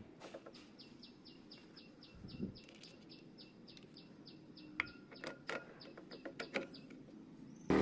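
Faint high chirps repeating about four times a second, like a small bird, with a few scattered light clicks and knocks of handling. At the very end, the Honda CB150R motorcycle engine starts up loudly.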